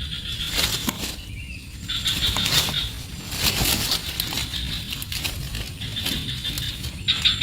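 Rustling and scuffling in a nest, with bursts of high-pitched, rapidly pulsed squeaking calls from the animals in it.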